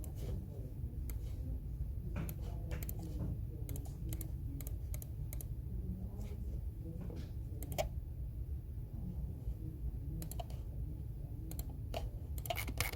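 Typing on a computer keyboard: irregular keystroke clicks coming in short runs with brief pauses between them, over a steady low background rumble.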